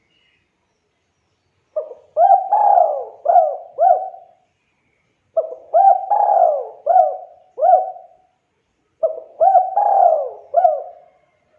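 Spotted dove (tekukur) cooing: three phrases of four or five quick coos each, starting about two seconds in and repeating every three to four seconds.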